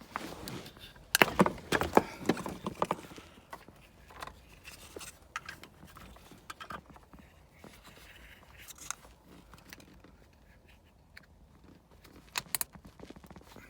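Spark plug wires being handled and unclipped: a quick run of sharp clicks and knocks about a second in, then scattered light ticks and rubbing, and two sharp clicks near the end.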